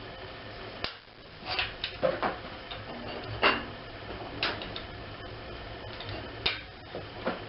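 Irregular clanks and clicks of metal tools on a railroad spike being forged, about eight knocks at uneven intervals, the loudest two to three and a half seconds in, over a steady low hum.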